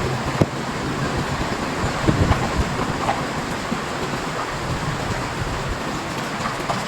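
Storm wind rushing and buffeting the microphone, a steady noisy roar with a fluttering low rumble and a few faint knocks.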